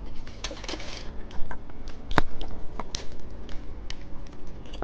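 Plastic candy packaging being handled and opened: a crinkly rustle near the start, one sharp click about two seconds in, then a run of small ticks and crackles.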